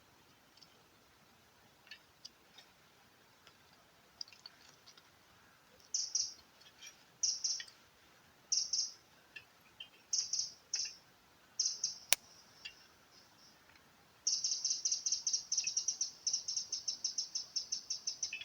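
A songbird singing: short high chirps in separate phrases, then a long rapid run of chirps, about ten a second, from about three-quarters of the way through. A single sharp click sounds just after the middle.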